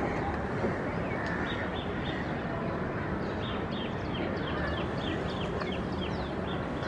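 Songbird chirping over a steady hum of traffic: a few short falling chirps early, then a quick run of them, several a second, about halfway through.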